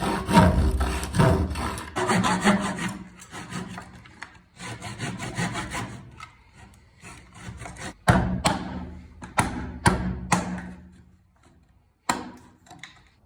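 Hand tool working wood in rhythmic rubbing strokes: a run of quick strokes, then slower, separate ones that stop shortly before the end, with one last short stroke.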